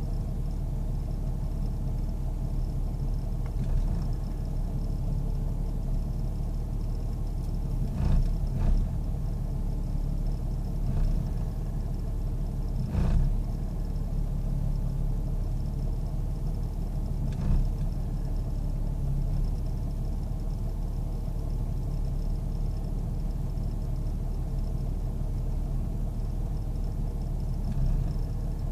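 1998 Jeep Grand Cherokee Laredo engine idling roughly, with several brief uneven jolts in its steady running. The engine acts as if it wants to stall, a rough idle whose cause the owner can't figure out.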